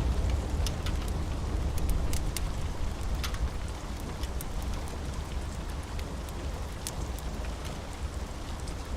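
Steady rain with a low rumble of thunder dying away over the first few seconds, and scattered sharp crackles from a wood fire burning in a fireplace.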